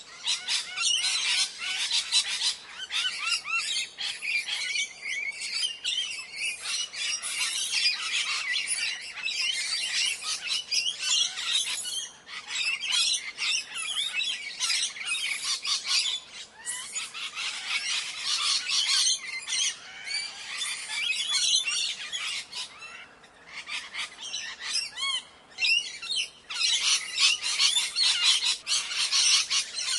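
Parrots calling and chirping, many quick high-pitched calls overlapping almost without a break, with a few brief lulls.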